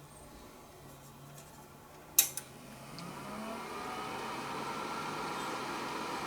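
An NEC PC-9821An desktop PC being switched on: a sharp click of the power switch about two seconds in, then its fan and drive spin up with a rising whir that settles into a steady hum.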